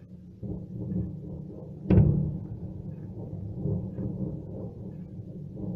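Explosions at a burning ammunition depot: a continuous low rumble, with one sharper, louder blast about two seconds in that dies away into the rumble.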